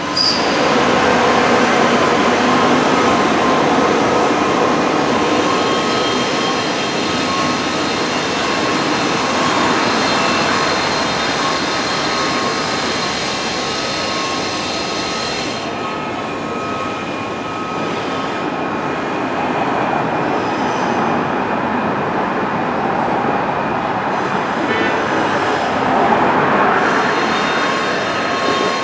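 Train running on rails: a continuous rolling rumble with steady high ringing tones over it, easing slightly after about sixteen seconds.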